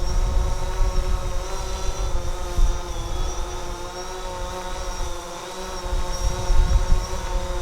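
DJI Phantom 4 quadcopter's propellers whining steadily in flight, with wind buffeting the microphone in gusts that ease for a moment about halfway through.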